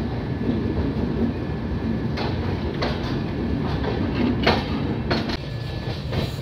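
Express train running on the rails: a steady rumble, with two pairs of sharp wheel clicks over rail joints in the middle.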